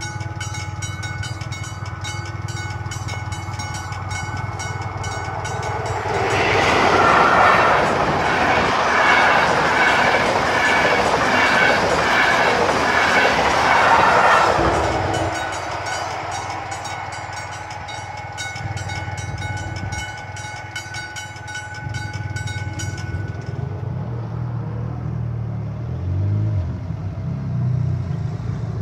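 Trenitalia electric passenger train passing over a level crossing, loudest for about eight seconds from about six seconds in, while the crossing's warning bell rings in quick, even strokes. The bell stops a little after twenty seconds in, and a car engine is heard near the end as the barriers lift.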